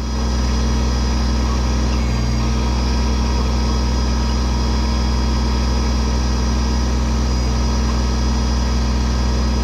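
Kubota tractor's diesel engine running steadily while the backhoe is being worked, getting slightly louder about half a second in and then holding even.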